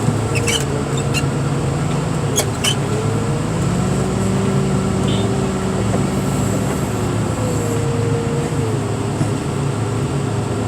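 Heavy diesel machine running steadily under the work, its hydraulic whine stepping up and down in pitch as the load changes. A few sharp clicks sound near the start and about two and a half seconds in.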